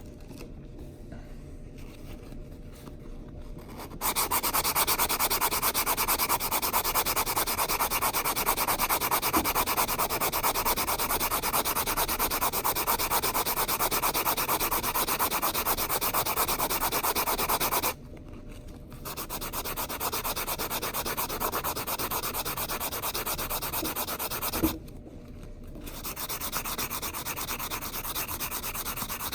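Nail file board scraping back and forth over the cut edge of a metal coin ring in fast, continuous strokes. It starts about four seconds in, stops briefly twice, and comes back quieter after the first stop. A single sharp tap comes just before the second stop.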